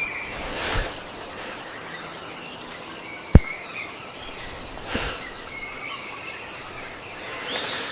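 Outdoor nature ambience: a steady hiss with faint bird chirps, two soft thumps and one sharp, loud click about three and a half seconds in.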